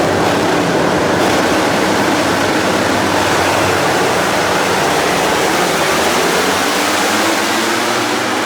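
The engines of a pack of MotoGP race bikes running together at full throttle, a loud, dense, continuous roar that eases slightly near the end.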